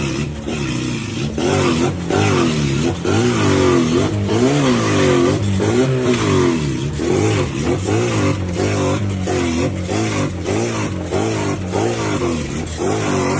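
Car engine revving up and down over and over, its pitch rising and falling about once a second, with sharp clicks and pops throughout.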